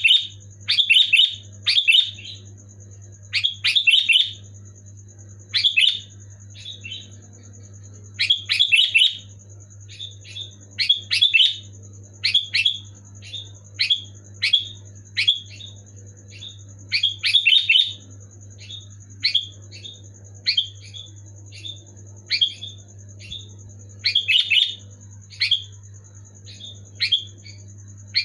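Sooty-headed bulbul (kutilang) singing: loud, short bubbly phrases of a few quick notes each, repeated about every second or two. A steady low hum runs underneath.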